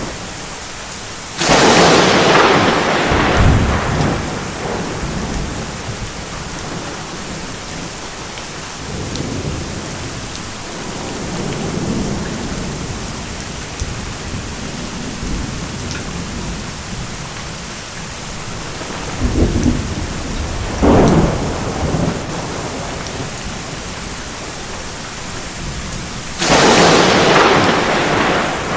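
Thunderstorm: steady heavy rain, with a sudden loud thunderclap about a second and a half in and another near the end. Lower rolling rumbles come in the middle, and shorter cracks about two-thirds of the way through.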